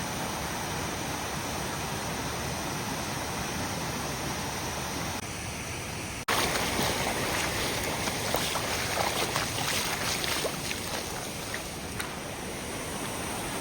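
Mountain stream water rushing steadily over rocks. About six seconds in there is an abrupt cut, after which the water is louder and splashier.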